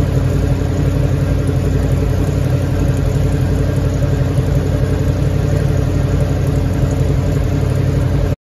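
1969 Chevrolet Camaro's 396 V8 idling steadily, heard from behind the car at its exhaust tips.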